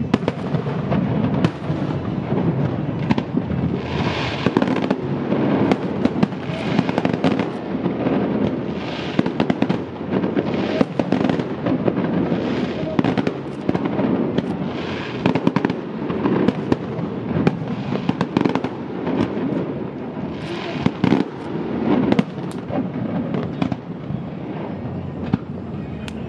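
Aerial firework shells bursting in a continuous display: many sharp bangs in quick succession, with several longer noisy bursts along the way.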